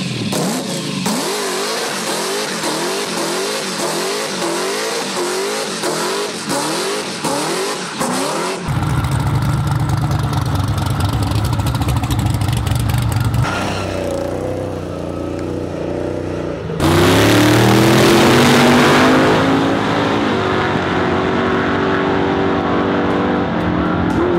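Early Holden Commodore engines being revved hard: first the pitch climbs and drops again and again, then the engine runs at high revs through a tyre-smoking burnout, and about two-thirds of the way in a louder run starts with the engine note sweeping up, as on a drag-strip launch.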